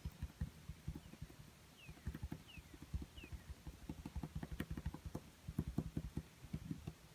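Paintbrush tapping and dabbing on a small canvas: rapid, irregular soft knocks, in two flurries with a brief lull around three and a half seconds in. Three short falling chirps of a bird come in faintly through an open window early in the tapping.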